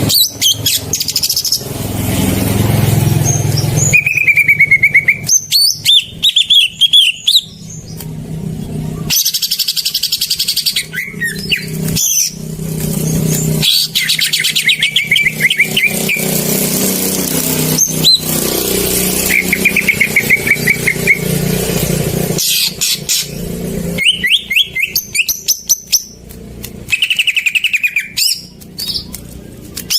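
Green leafbird (cucak ijo) singing in repeated short phrases of sharp chirps and rapid trills, used as lure song for a caged leafbird that has stopped singing. A vehicle engine rumbles under the song for long stretches.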